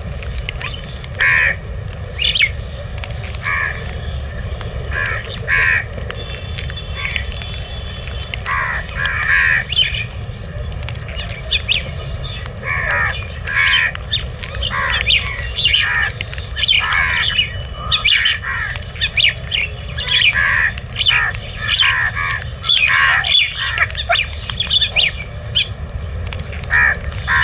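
Crows cawing: many short, harsh calls one after another, coming thicker and faster in the second half, over a steady low background hum.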